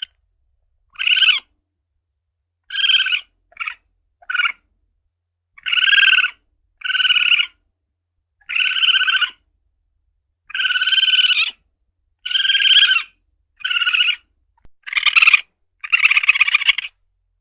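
Asian palm civet (luwak) calling: a run of about a dozen short calls, each about half a second to a second long, separated by gaps of dead silence.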